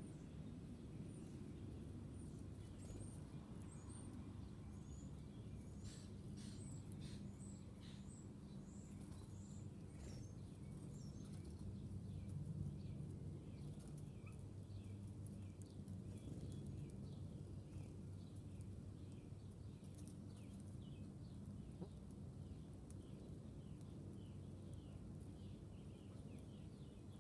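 Wild birds chirping faintly over a steady low background hum. High, thin chirps come in the first half, then a regular run of short repeated chirps continues through the second half.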